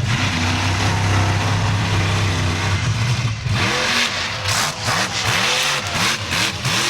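Bigfoot monster truck engine running hard under load, then revving up and down in quick repeated blips over the second half.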